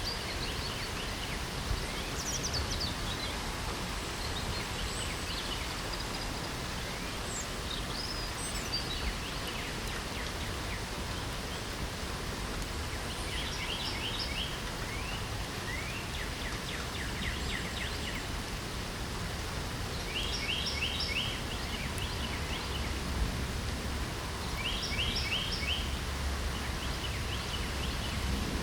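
Steady light spring rain with birds singing: a short trilled phrase of rapid high notes recurs four times from about halfway in, with scattered chirps earlier.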